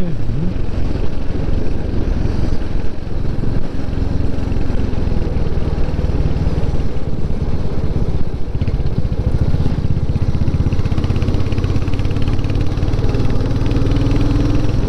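Motorcycle engine running steadily while the bike is ridden at an even pace, with no change in speed or revs.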